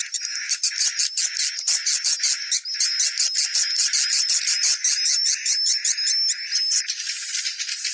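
Swiftlets chirping: a rapid, continuous twitter of high, repeated chirps. About seven seconds in the chirps run together into a denser rattle.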